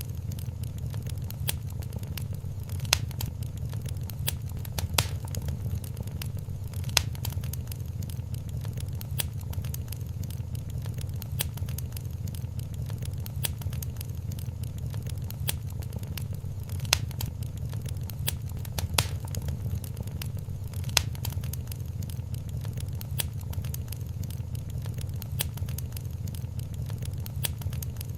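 Wood fire crackling in a fireplace: a steady low rumble of burning with constant small snaps and a louder single pop every few seconds.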